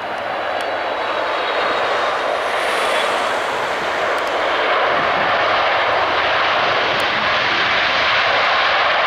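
Jet airliner's engines running, a steady rushing noise that grows gradually louder.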